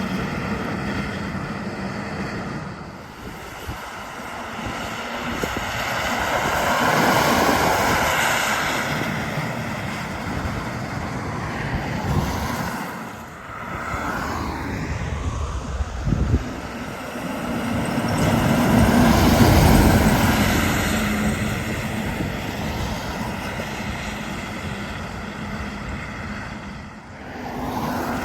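Heavy trucks passing by on a highway, diesel engine drone and tyre noise swelling and fading as each one goes past; the two loudest passes come about a quarter of the way in and about two-thirds of the way in.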